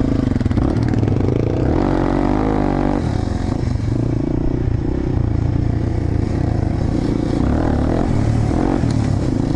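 Small single-cylinder motorcycle engine running under way at riding speed, its pitch wavering with throttle changes a couple of seconds in.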